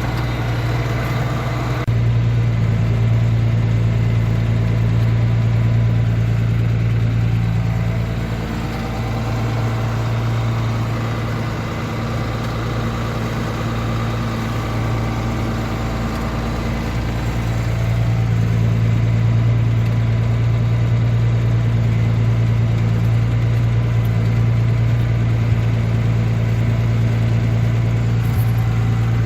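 Tractor diesel engine running steadily under load. It picks up about two seconds in, eases off from about eight seconds, and comes up again around eighteen seconds.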